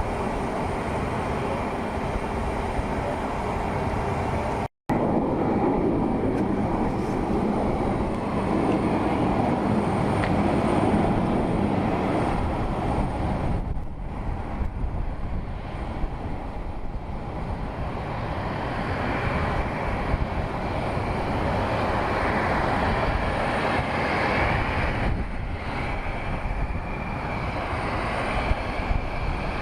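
Jet aircraft engines running, a steady loud rumble, with a split second of dead silence about five seconds in.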